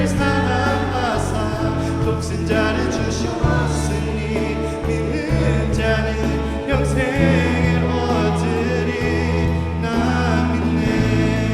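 Church praise team singing a worship song: several voices over a band with a steady bass line.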